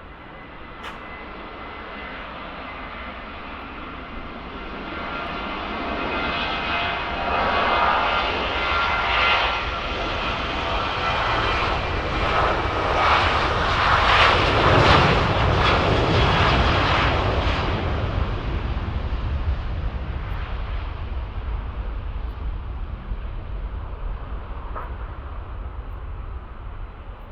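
Jet engines of a departing Jet2 Boeing 737-800 (CFM56-7B turbofans) at takeoff power. The noise grows louder, peaks with a whine about halfway through as the jet passes, then fades away.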